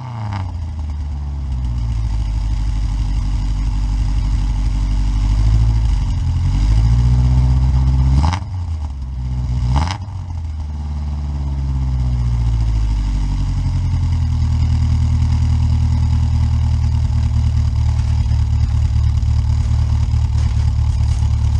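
Dodge Avenger's engine running just after a cold start, having sat unstarted about six months. Its speed wanders up and down for the first ten seconds or so, with two brief sharp sounds near the middle, then settles into a steady idle.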